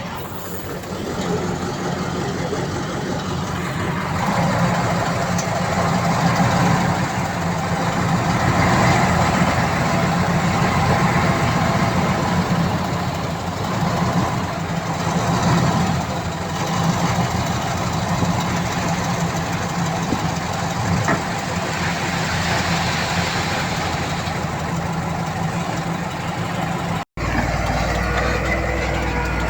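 Diesel engine of heavy earthmoving machinery running steadily with a strong low rumble. Near the end the sound cuts out for an instant and then carries on, steadier.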